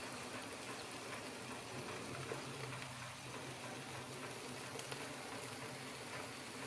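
Leftover char siu marinade and chicken juices simmering in a saucepan on the stove: a steady low bubbling hiss with faint scattered crackles.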